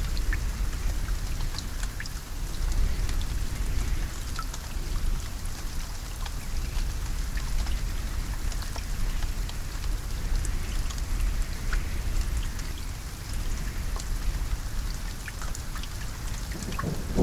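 Steady rain falling, with individual raindrops ticking sharply through the hiss. A low thunder rumble starts to build near the end.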